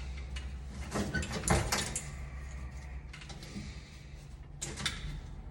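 Clicks and knocks of tools and metal parts being handled, in a cluster between one and two seconds in and again near the end, over a low hum that stops about three seconds in.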